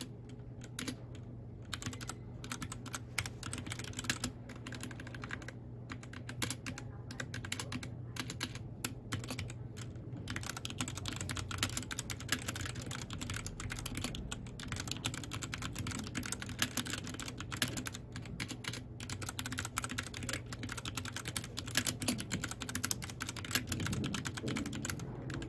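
Mechanical keyboard keys clacking in fast, continuous, uneven typing, over a steady low hum.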